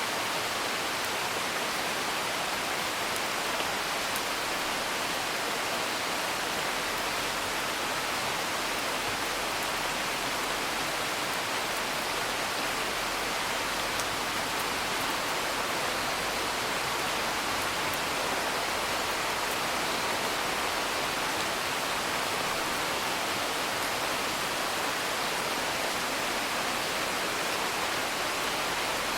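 Steady, even rain with a few faint crackles from a wood fire.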